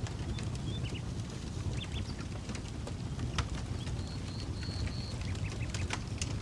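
Campfire crackling, with scattered sharp pops over a steady low rumble. A bird chirps a few short high notes about four seconds in.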